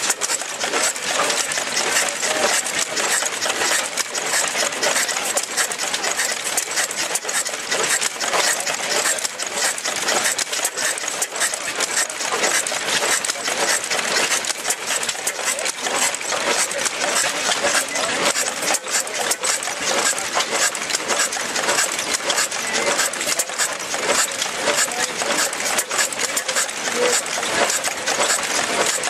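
1925 Austral 5HP oil engine running steadily, its valve gear and moving parts giving a rapid, even metallic clatter.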